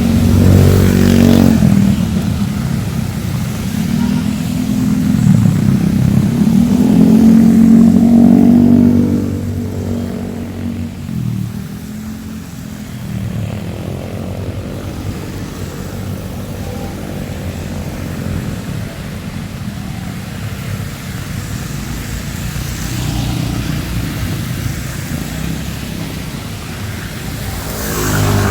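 Motor traffic, motorcycles and cars, passing in heavy rain: engine notes rise and fall as vehicles go by, loudest near the start and again about seven to nine seconds in, then a steadier engine drone. A faint hiss of rain runs underneath.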